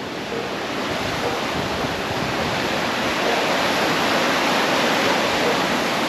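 Steady rushing of water from a small mountain stream and waterfall, growing slightly louder over the first second.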